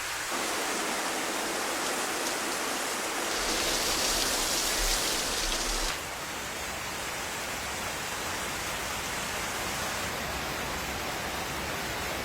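Steady hiss of falling rain. About three seconds in it turns louder and brighter for a few seconds, then drops back suddenly to the steadier hiss.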